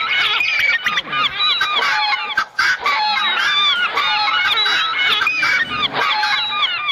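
A flock of birds calling at once: a dense, continuous chorus of short overlapping squawking calls, dipping briefly about two and a half seconds in.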